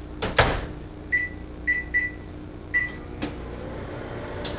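A microwave oven's door shut with a knock, then four short high beeps as the keypad is pressed to set the cooking time, followed by a click.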